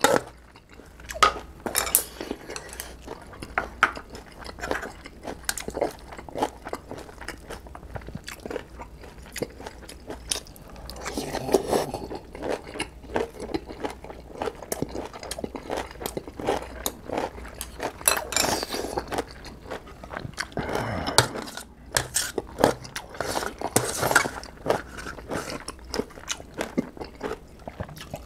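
Close-miked chewing and crunching of instant ramen noodles and mustard-leaf kimchi, with many short wet clicks from the mouth. Chopsticks and a spoon clink now and then against a stainless-steel bowl.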